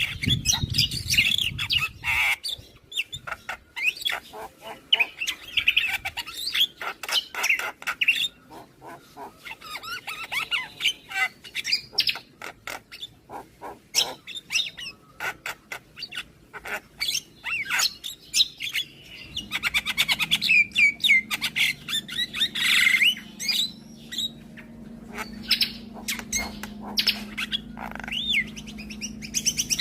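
Javan myna singing a long, continuous chattering song: rapid clicks and rattles mixed with squawks and whistled notes that glide up and down.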